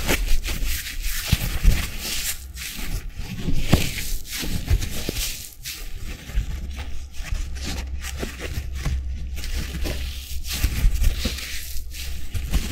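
Two sponges squeezed and rubbed close to the microphone, a continuous crackling, squishing sound with many small clicks.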